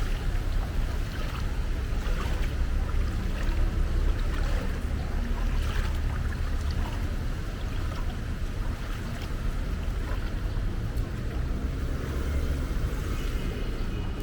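Street floodwater sloshing and splashing over a steady low rumble.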